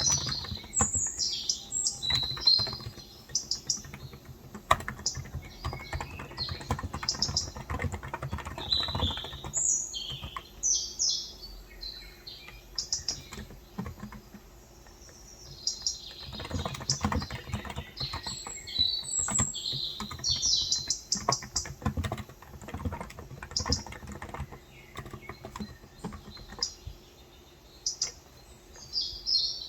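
Typing on a Cox Endeavor electro-capacitive (Topre-style) 35 g tenkeyless keyboard: uneven runs of keystrokes with brief lulls about halfway through and near the end. Small birds chirp over it in repeated high bursts.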